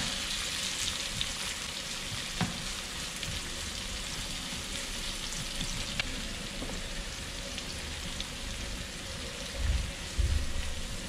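Chopped onion, garlic and scotch bonnet pepper sizzling steadily in very hot oil in a frying pan as they are stirred with a wooden spatula. A few light clicks sound through it, and a couple of dull thumps come near the end.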